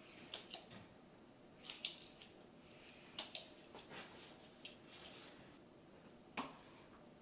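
Paint roller working paint onto a wall: faint, irregular sticky clicks and ticks, a cluster near the start, more around two and three to four seconds in, and one sharper click about six seconds in.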